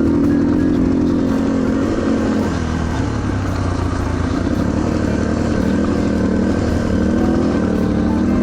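Yamaha TTR230's single-cylinder four-stroke engine running while riding, its pitch dipping and rising a couple of times, over a steady rush of wind noise. The bike is running poorly on a weak battery.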